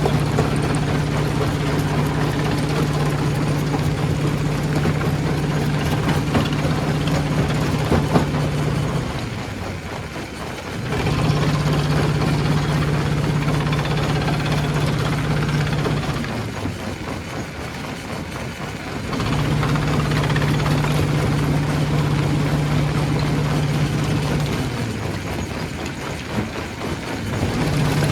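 Heavy machinery engine running with a steady low hum. Three times the hum drops away and the sound softens for two to three seconds, then it comes back at full strength.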